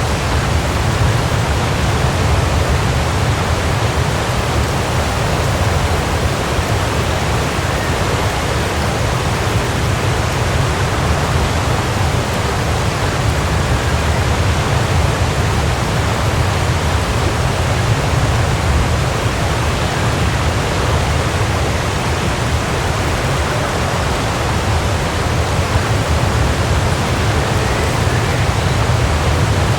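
Waterfall: water falling and crashing into a pool in a steady, dense rush with a deep low rumble, unchanging throughout.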